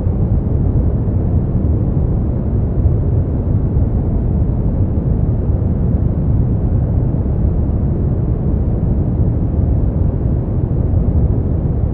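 Steady sleep-aid noise track: an even, unbroken rush, strongest in the bass and darker than true white noise, with no high hiss.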